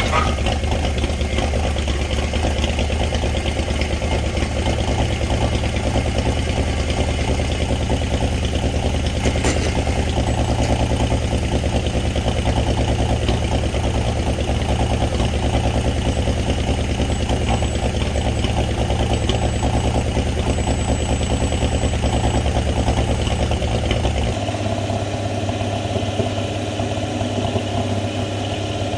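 Winch truck's engine running steadily at low revs, with a single sharp click about nine seconds in. Its note changes about 24 seconds in, when the deep low drone drops away.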